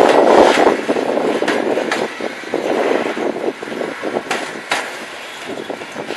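Freight train wagons rolling past, their wheels clacking over the rail joints. The rumble is loud at first and fades over the next few seconds, with a few sharp clacks near the end.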